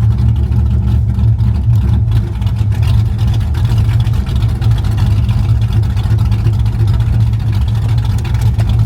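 Motor vehicle's engine running with a steady low rumble.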